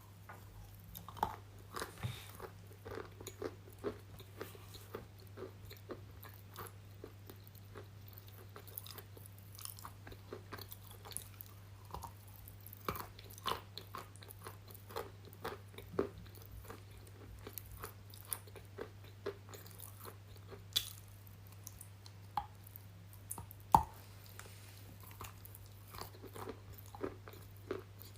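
Close-up crunching as a person bites and chews brittle chalk-like pieces, irregular sharp crunches and snaps with one especially loud snap near the end, over a steady low electrical hum.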